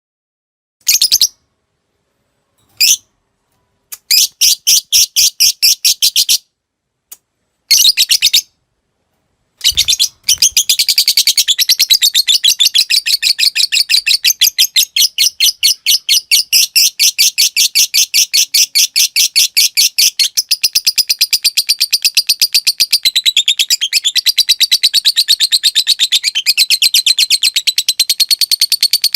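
Lovebird chattering in a fast, even string of sharp pulses: a few short bursts separated by silence, then from about ten seconds in one long unbroken chatter, the long 'ngekek' sought from fighter lovebirds.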